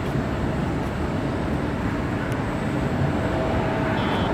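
Jet airliner engine noise: a steady wash of sound with a faint steady whine, slowly growing louder.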